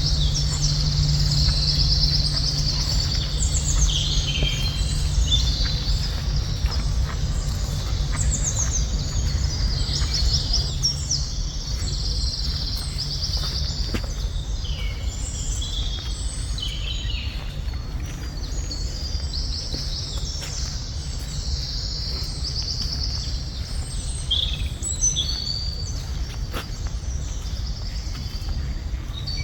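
Several wild birds chirping and trilling in forest, many short overlapping calls, over a steady low rumble.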